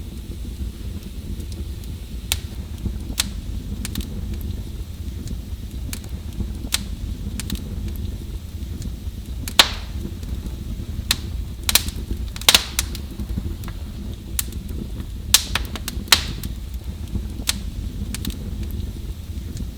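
Wood fire burning in a fireplace: a steady low rumble of the flames with irregular sharp crackles and pops, a cluster of louder pops around the middle.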